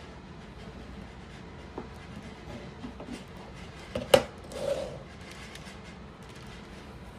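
Stamp album being handled and a page turned: a few light rustles, a sharp snap about four seconds in, then a brief swish of the page.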